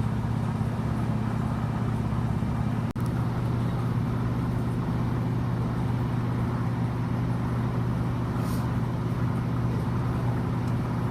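Class 155 diesel multiple unit under way, its underfloor Cummins diesel engine giving a steady drone together with running noise, heard from inside the carriage. The sound drops out for a moment about three seconds in.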